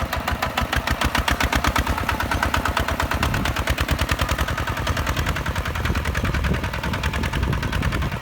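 Hinota HG Gold 155 DI tractor's diesel engine running steadily, its exhaust coming as rapid, even pulses.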